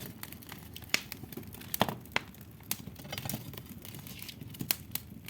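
Wood fire crackling in a fireplace, with irregular sharp pops and snaps over a low steady rush of burning; the logs are burning down fast.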